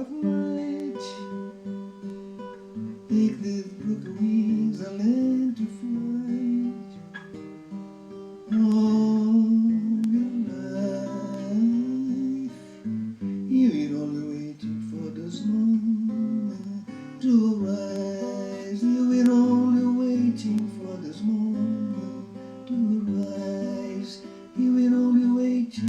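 Acoustic guitar music, strummed and picked, with chords and a melody line changing throughout.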